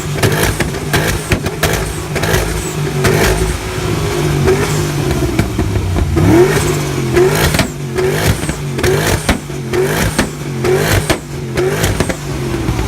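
Modified car engine revved hard over and over, a rapid run of short rising blips that come faster after about six seconds in, with sharp cracks from the exhaust among them.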